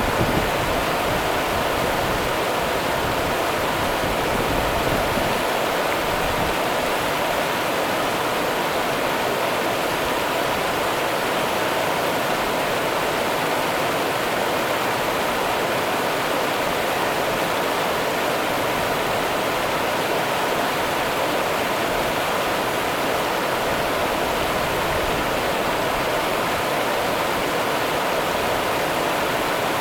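River water running: a steady, unbroken rush of flowing water.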